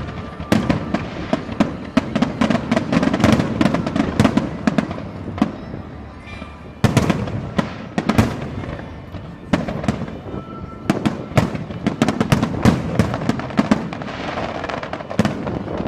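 Fireworks display: rapid, overlapping bangs and crackling from bursting shells. The volleys thin out briefly around six seconds in, then resume with a sharp loud burst.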